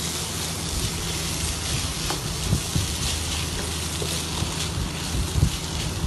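Rice and mixed vegetables sizzling steadily as they fry in a nonstick pan, stirred with a wooden spatula that scrapes lightly now and then.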